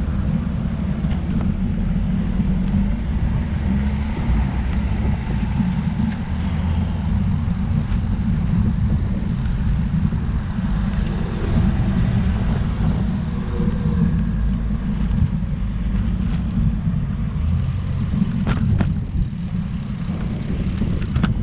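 Steady low rumble of wind buffeting the microphone while riding a road bike.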